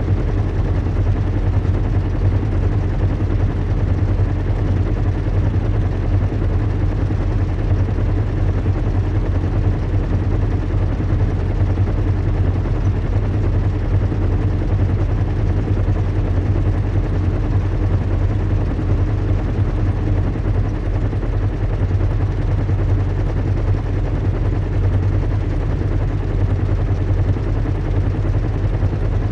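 Recreated ambience of a large airship's engines in flight: a steady low hum, deepest in the bass, with a faint steady tone above it and a hiss on top, unchanging.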